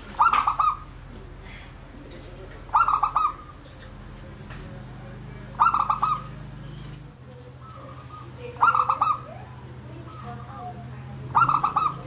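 Zebra dove (perkutut) singing its cooing song: five short, rapidly pulsed coo phrases, one about every three seconds.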